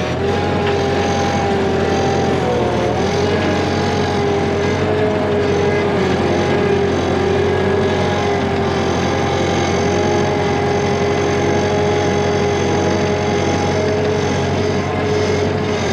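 An engine running steadily, with a steady whine over it that dips briefly in pitch about two and a half seconds in.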